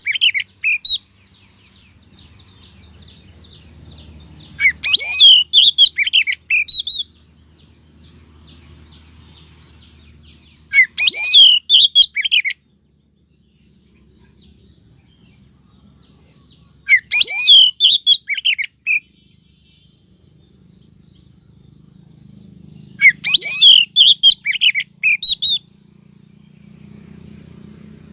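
Oriental magpie-robin (kacer) calling: a female's 'sweetener' call, used as a lure to draw in males. It comes in short bursts of rapid chirps and whistles, each about two seconds long, repeating about every six seconds.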